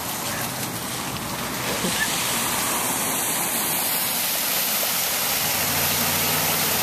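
Heavy rain and flash-flood water rushing down a street: a steady wash of water noise that swells slightly about a second and a half in. A low steady hum comes in near the end.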